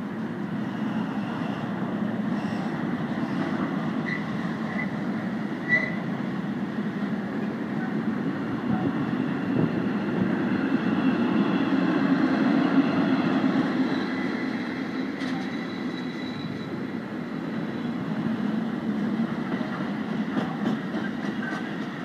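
Intermodal freight train's wagons rolling past, a steady rumble of wheels on the rails that swells to its loudest midway, with a few faint high squeals.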